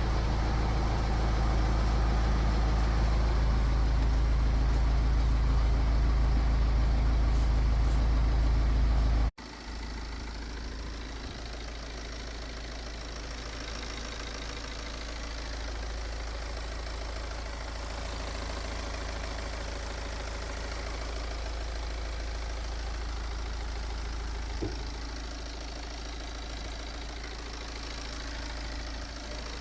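BMW B47 four-cylinder diesel engine idling steadily. About nine seconds in the sound cuts off abruptly and goes on quieter, with less low rumble.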